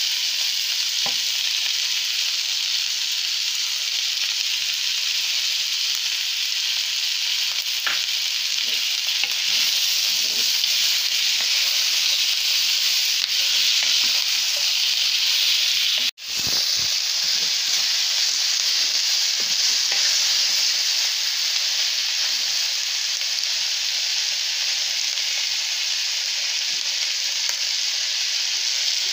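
Sliced bell peppers, onions and chicken sizzling in hot oil in a frying pan, stirred with a wooden spatula that scrapes and taps against the pan. The sizzle is steady and cuts out for a split second about halfway through.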